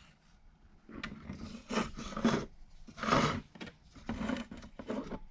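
A series of about five scraping strokes, roughly a second apart: repair adhesive being spread and smeared over ABS plastic sheet as it starts to set up.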